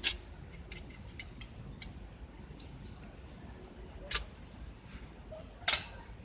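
Sharp clinks and taps of camp cookware and utensils being handled, a few scattered knocks over low background noise, the loudest near the start, about four seconds in and near the end.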